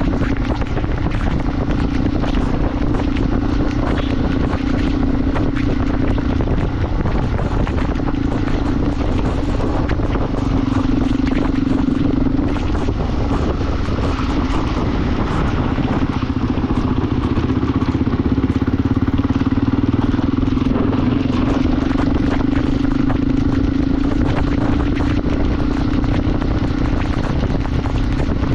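Motorcycle engine running at a steady cruising pace while riding, with a held engine note that wavers slightly now and then, under a continuous rush of wind and road noise.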